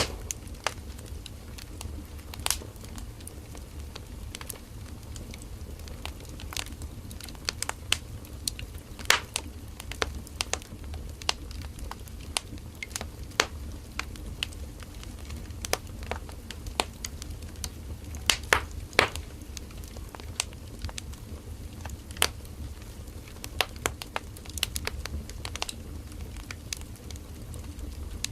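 Firewood burning in a bonfire: irregular sharp crackles and pops over a steady low rumble of the fire.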